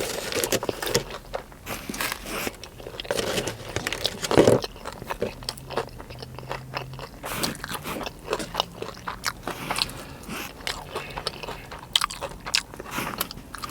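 Close-up chewing of a mouthful of sushi, with irregular crunches and wet mouth clicks.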